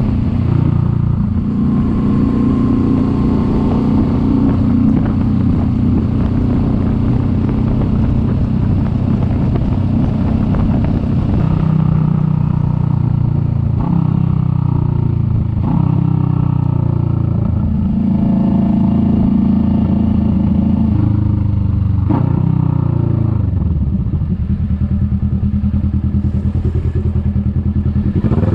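Kawasaki Vulcan S 650's parallel-twin engine under way, its revs climbing and dropping several times as it changes gear. About 23 seconds in it winds down to a low, steady idle.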